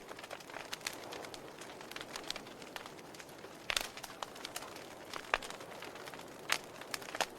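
Wood fire crackling in a fireplace: a soft steady hiss with scattered sharp pops, a handful of louder ones in the second half.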